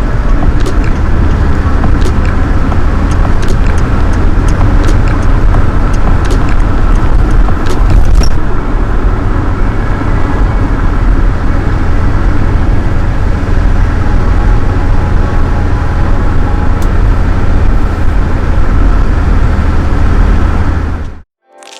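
1969 Nissan Cedric 130's stock L20A straight-six running through its standard muffler, a steady loud drone. It cuts off suddenly near the end.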